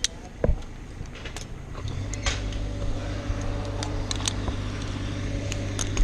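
A small engine comes on about two seconds in and runs steadily at a low idle, after a single knock near the start, with sharp ticks and clinks scattered over it.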